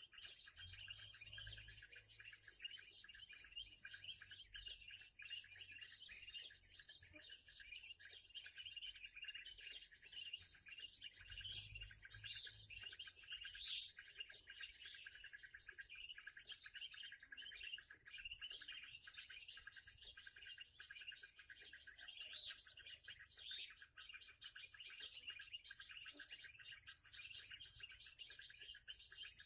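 Faint, continuous, rapid high-pitched chirping of small birds, a dense run of quick notes with no break.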